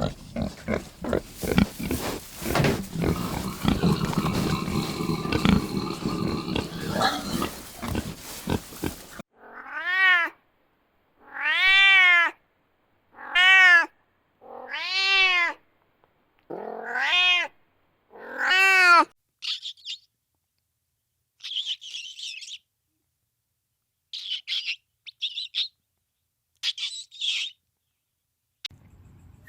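A series of animal calls. About nine seconds of rough, dense grunting noise gives way to six separate rising-and-falling, meow-like calls about a second apart, then short, high chirps near the end.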